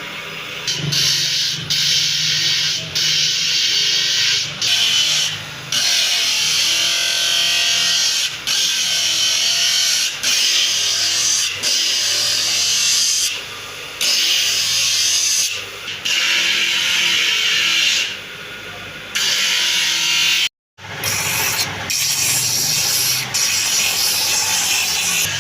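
Wood being shaped with a tool: long scraping strokes, each a second or more, broken by short pauses, over a steady low hum. The sound cuts out abruptly for a moment about twenty seconds in.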